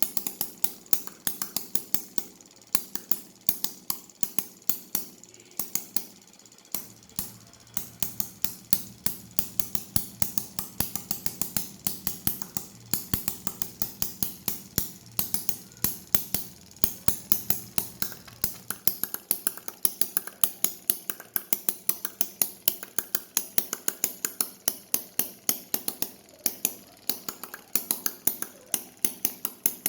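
Small homemade engine running with rapid, steady clicking, about four to five sharp clicks a second, over a faint low hum.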